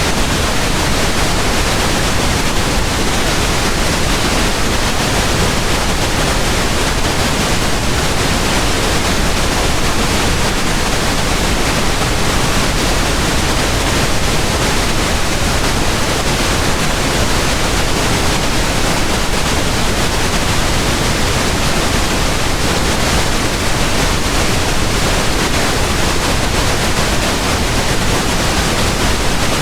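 Steady pink noise: an even, unchanging hiss spread across all frequencies, fuller in the low end than white noise.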